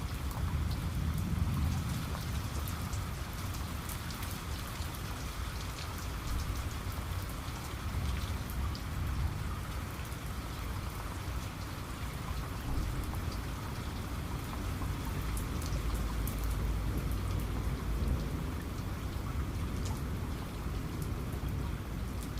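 Steady rain falling, with many individual drops ticking on a surface over a continuous hiss, and a low rumble underneath that swells now and then.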